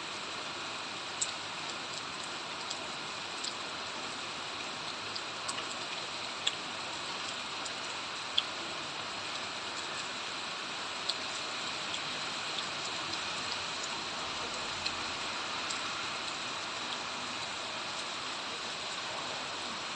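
Steady rain falling, an even hiss with scattered sharp drips of single drops hitting nearby surfaces.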